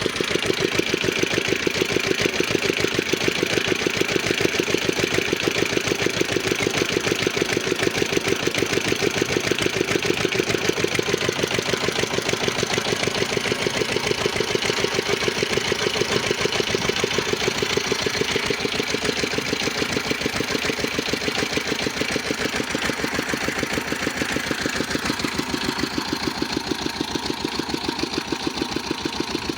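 Old 18 hp stationary diesel engine running steadily, its firing strokes making an even, rapid beat, a little quieter over the last few seconds.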